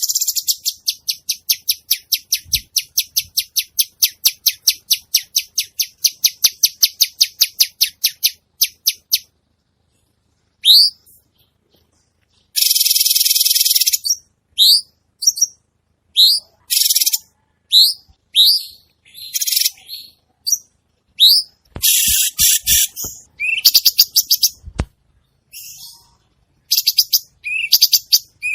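A cucak cungkok songbird singing vigorously and high-pitched. It opens with a fast run of repeated chirps, about five a second, that stops about nine seconds in. After a brief pause come scattered rising whistled notes mixed with dense bursts of chirping.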